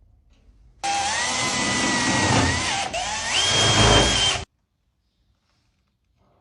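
Electric drill running: its motor whine sags in pitch as it comes under load about two and a half seconds in, then spins up to a higher pitch and holds until it cuts off abruptly.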